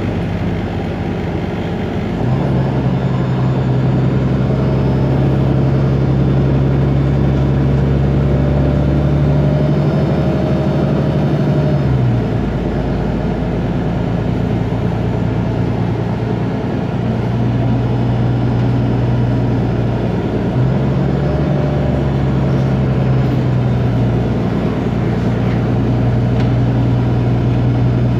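Otokar Kent LF city bus's Ford Ecotorq Euro 6 diesel engine running steadily. Its pitch steps up about two seconds in, holds, drops back about twelve seconds in, and rises again around twenty seconds in.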